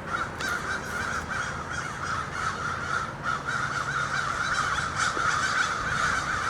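A flock of American crows cawing continuously, many birds calling over one another. The observer takes the cawing for a warning to other crows about a hawk circling overhead.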